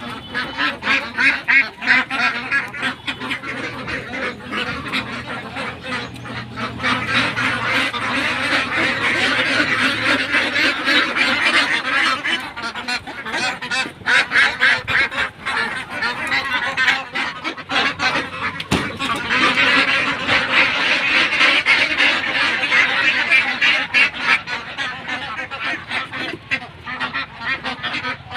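A flock of domestic ducks quacking together in a dense, continuous chorus of overlapping calls, swelling louder at times.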